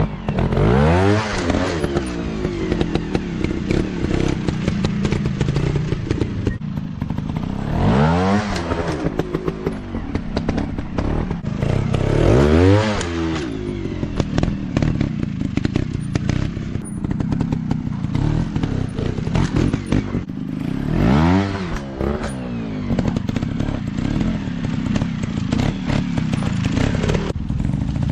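Small off-road motorcycle engines running, with four surges where the pitch climbs and falls back as the throttle is opened, amid frequent clattering knocks and scrapes.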